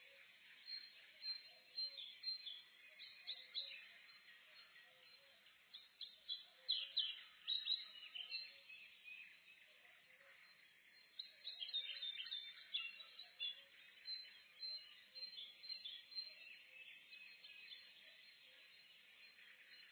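Dawn chorus of several songbirds in a forest: overlapping high chirps and trills, busiest in two bursts, over a faint steady background hush.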